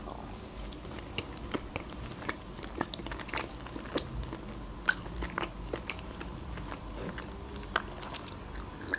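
Close-miked chewing of a homemade mini burger, with small wet mouth clicks and smacks scattered irregularly.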